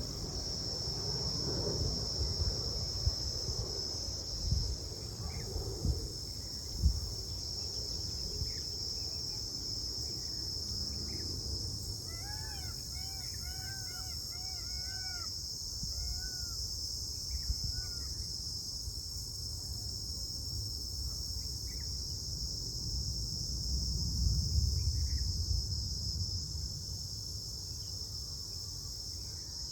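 Steady high-pitched chirring of insects, with a low rumble and a few knocks. Between about twelve and fifteen seconds in, a bird calls a quick run of about eight repeated, arching notes.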